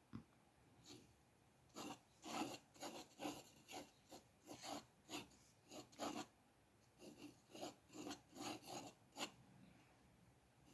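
A drawing tool scratching on paper: a run of short, faint strokes, roughly two a second, starting about two seconds in and stopping a little after nine seconds.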